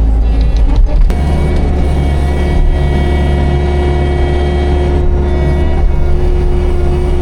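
Manitou skid loader engine running steadily, its note changing abruptly about a second in and then holding.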